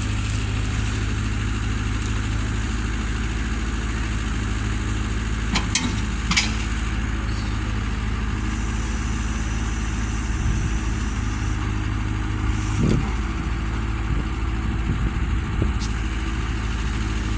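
An engine idling steadily, with a couple of brief sharp knocks about six seconds in.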